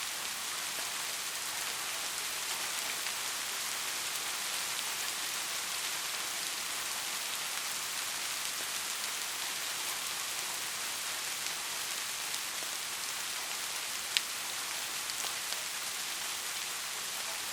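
Steady rain falling in an even hiss, with one sharp click about fourteen seconds in.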